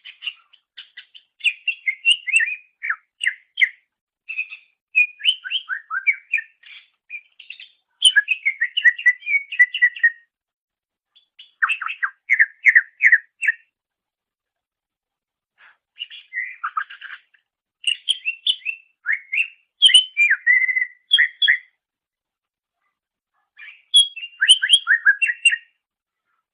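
Cucak ijo (greater green leafbird) singing: fast bursts of varied chirps and whistles, in phrases broken by short pauses.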